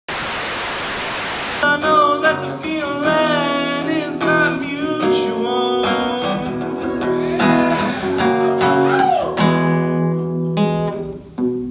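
A burst of even hiss lasting about a second and a half, then an acoustic guitar played with a voice singing over it.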